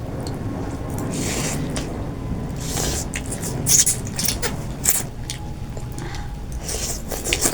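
Chicken noodle soup being eaten: wet slurps of noodles and broth with chewing and short smacking clicks, coming in several separate bursts.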